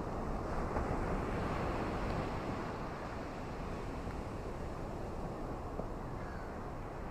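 Ocean surf and rain making a steady rush, swelling a little about a second in and then settling.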